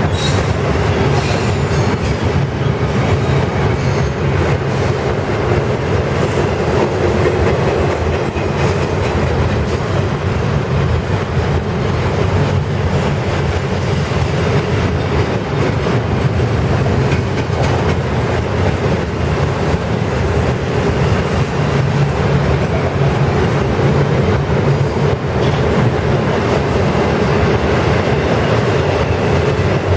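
Norfolk Southern mixed freight train rolling past, a loud steady rumble of steel wheels on rail, with a few sharp clicks in the first couple of seconds.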